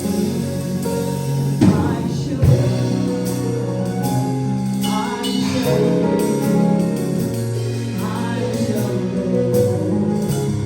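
Gospel music: singing over sustained instrumental chords, with two sharp percussive hits about two seconds in.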